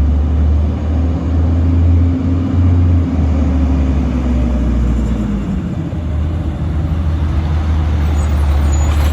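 Autocar side-load garbage truck running, with a heavy low engine rumble; a humming tone over it drops in pitch and fades about halfway through.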